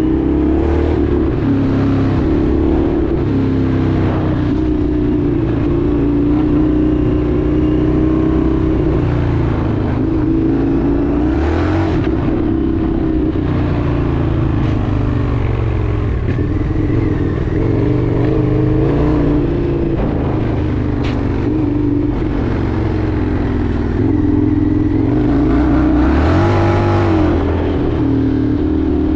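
Indian FTR 1200's V-twin engine running under way, its revs rising and falling with the throttle. A couple of brief louder rushes of noise come about twelve seconds in and again near the end.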